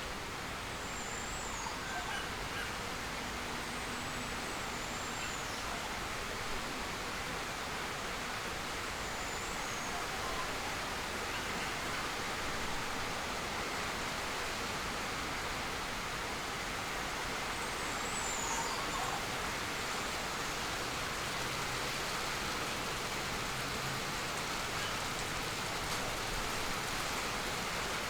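Steady hiss of outdoor ambience with a few faint, high bird chirps and whistles scattered through it, in a walk-through bird aviary.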